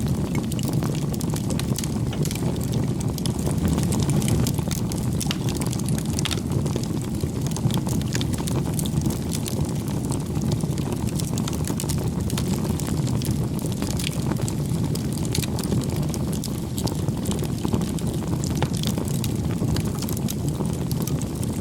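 Wood campfire burning: a steady low rush of flames with frequent small crackles and pops.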